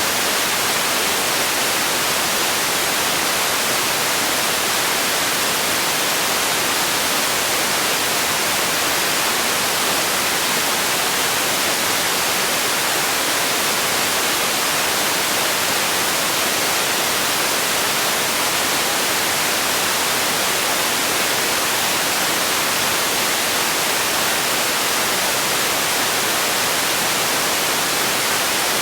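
Steady white noise: an even, unbroken hiss that stays the same throughout.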